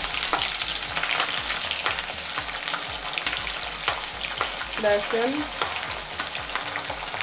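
Sliced onions and garlic cloves sizzling and crackling in hot mustard oil in a kadai, with a few sharp clicks from a metal spoon scraping them off a plate into the pan.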